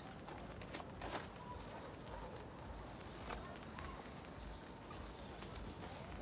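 Faint, scattered bird chirps and short calls, with a few soft clicks and a low background rumble.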